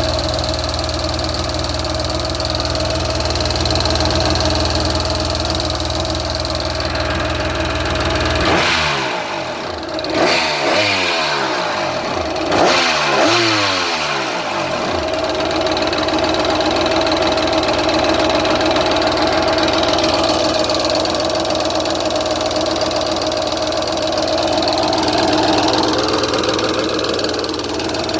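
Engine running steadily, revved up and down several times a third of the way in with its pitch rising and falling, then settling back to a steady run.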